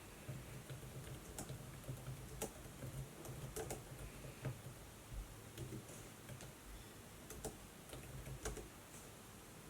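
Laptop keys clicking in slow, irregular taps over a faint low hum.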